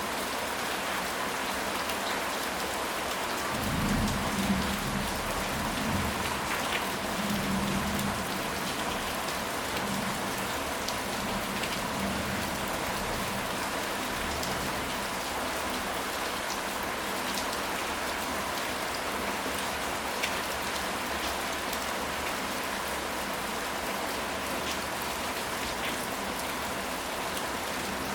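Steady rain falling, an even hiss of drops, with a low roll of thunder about four seconds in that rumbles for several seconds and fades away.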